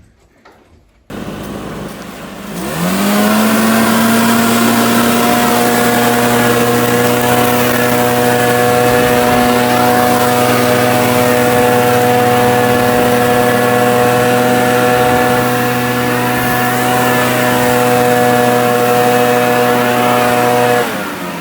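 A motor speeding up quickly, then running at a steady pitch, loud, until it winds down near the end.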